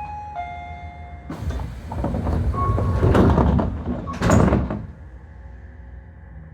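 Tobu 30000 series train's sliding passenger doors closing: a short two-note falling chime, then about three and a half seconds of loud rushing noise with two peaks as the doors shut. A steady low hum carries on after.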